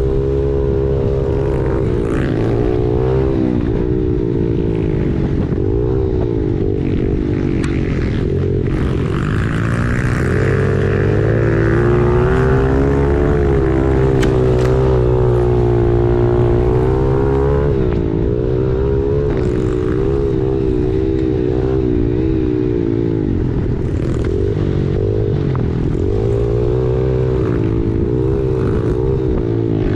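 Pit bike engine being ridden on a trail, its pitch rising and falling continually with the throttle, held higher for a few seconds in the middle.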